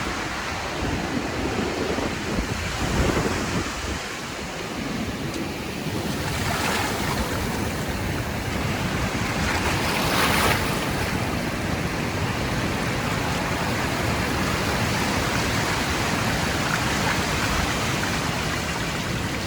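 Surf washing up the beach under strong wind gusting on the microphone, with a wave rushing in about six and again about ten seconds in.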